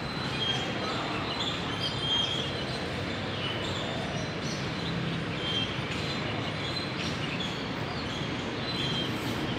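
Steady background noise with short, high bird chirps every few seconds.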